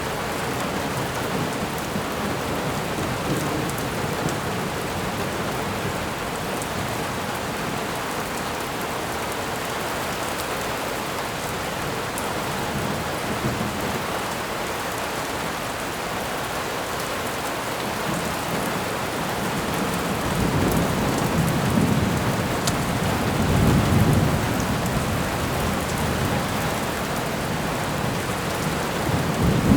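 Steady rain with thunder: an even hiss of rainfall, joined in the second half by several low rolls of thunder that swell and fade.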